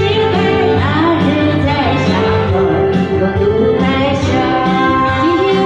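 A woman singing a slow melody over live band accompaniment with a steady beat.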